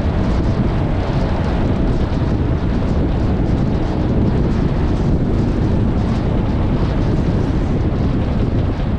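Off-road vehicle driving on desert sand, its engine running as a steady low rumble under heavy wind buffeting on the microphone.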